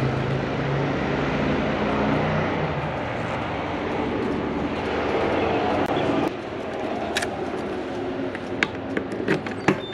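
A motorcycle engine running, its sound fading over the first couple of seconds into a steady rushing noise that cuts off suddenly about six seconds in. Scattered sharp clicks and knocks follow near the end.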